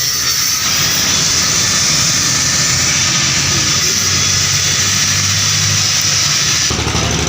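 Steady loud hiss over a low engine hum, the hum growing stronger near the end.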